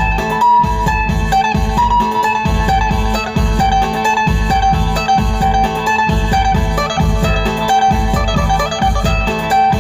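Phin, the Isan Thai plucked lute, playing a melody of short plucked notes over a steady low bass beat.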